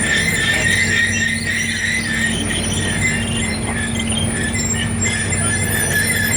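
Heavy diesel machinery running with a steady engine hum, under a continuous, wavering high-pitched metallic squeal.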